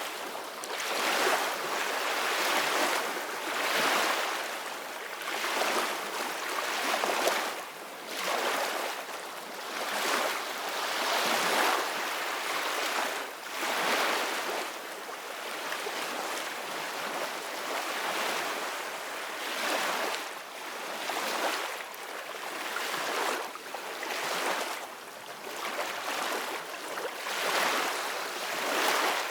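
Ocean waves washing onto a beach, a noisy surf hiss that swells and fades every second or two.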